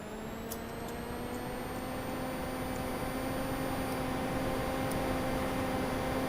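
Synthesized rack-server fan sound from Reason's Thor synth: a hiss of white noise under several whining tones that glide upward and level off as the imitated fan spins up, growing steadily louder. Near the end it cuts off abruptly with no decay.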